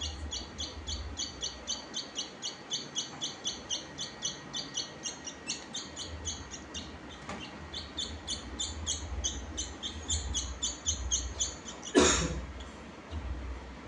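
A small bird chirping rapidly and repeatedly, about three short high chirps a second. About twelve seconds in, the chirping stops and there is one loud, sudden sound.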